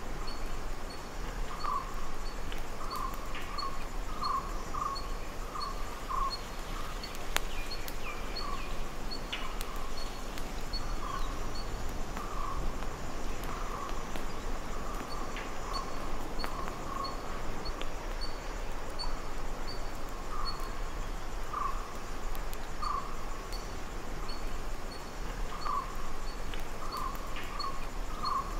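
Tropical forest ambience: a bird repeats a short call at irregular intervals, about once a second, over a steady background hiss. A faint, high ticking runs at about two a second.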